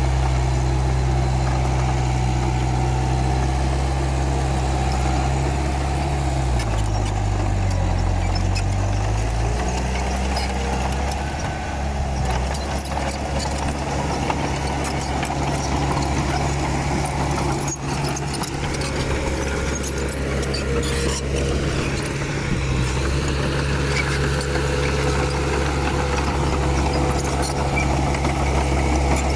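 Komatsu D31P bulldozer's diesel engine running steadily. About six seconds in, its note drops for a few seconds and then climbs back.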